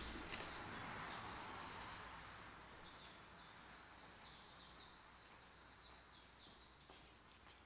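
Faint birds chirping over quiet background noise, with a soft hiss dying away in the first couple of seconds.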